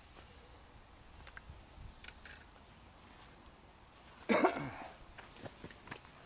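A small songbird repeating one short, high, down-slurred chip note about once a second. A brief loud noise just after four seconds in, with a few faint clicks.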